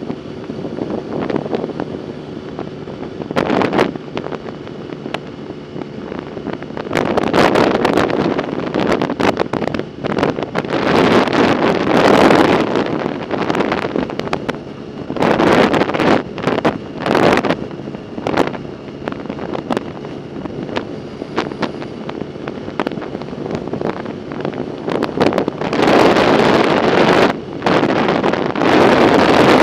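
Wind buffeting the microphone on a moving bike, gusting loud and soft in irregular surges.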